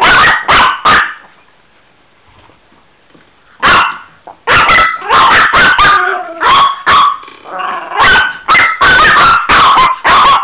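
Chihuahua barking: three quick barks, a pause of about two and a half seconds, then a rapid run of loud, sharp barks.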